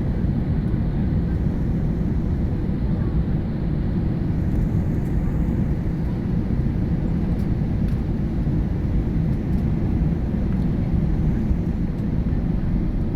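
Airliner cabin noise during landing: a steady low rumble of the engines and rushing air, heard from inside the cabin.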